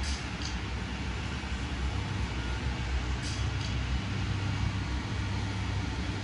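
Rainy street ambience: a steady low rumble like traffic on a wet road under an even hiss of rain. A pair of short clicks comes near the start and again about three seconds in.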